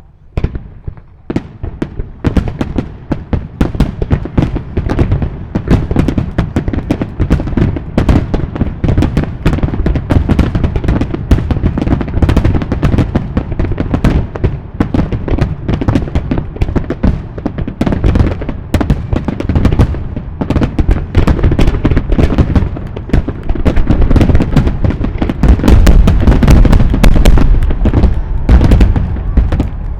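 A fireworks barrage: shells bursting in rapid, overlapping succession, building from about a second in into a continuous din of bangs and crackles, with the heaviest low booming near the end. It is most likely the display's closing star mine (rapid-fire sequence).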